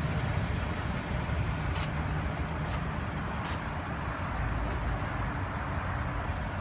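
Steady low rumble of motor-vehicle noise with no clear change.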